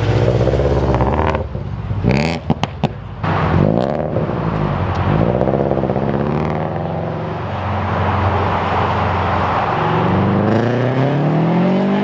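Car engine running under way, its pitch rising and falling with throttle and climbing steadily near the end as the car accelerates. There are a few short sharp knocks about two to three seconds in.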